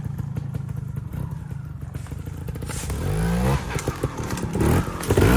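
Trials motorcycle engine running at a low, steady idle, then revved about three seconds in, rising in pitch and getting louder, with some clatter.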